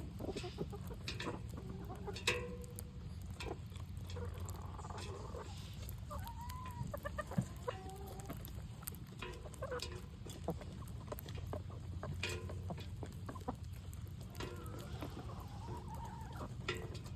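Chickens clucking while feeding: short calls scattered through, among many small sharp taps, over a steady low rumble.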